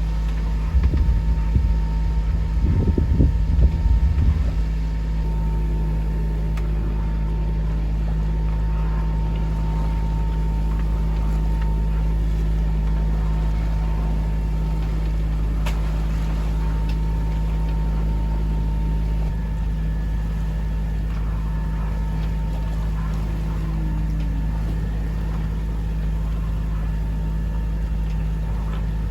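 Bavaria 30 sailing yacht's inboard diesel engine running steadily under motor, a constant low drone. The first four seconds carry some extra uneven, louder rumble.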